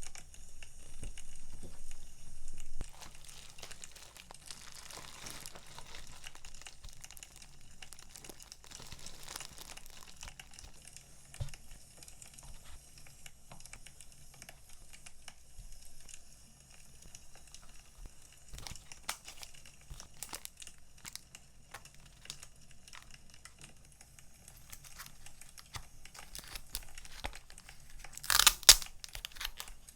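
Packaging crinkling and rustling as it is handled and unwrapped, with the loudest crinkling burst near the end.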